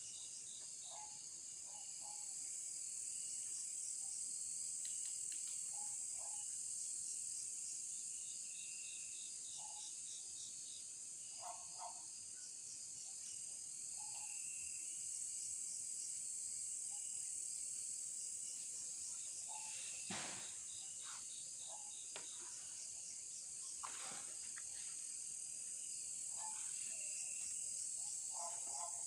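Night chorus of crickets and other insects: a steady high-pitched drone with rhythmic pulsing trills over it and scattered short, lower chirps. Two sharp clicks stand out in the second half.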